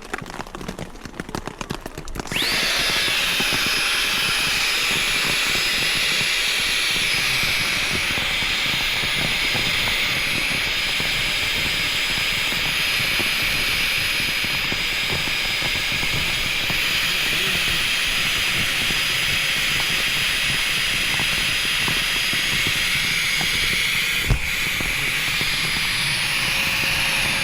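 Small electric air pump switching on about two seconds in, its whine rising as it spins up, then running steadily while inflating an air mat. There is a single sharp knock near the end.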